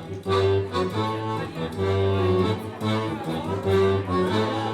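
Folk band playing live, an instrumental passage with guitar over long low notes that return every couple of seconds.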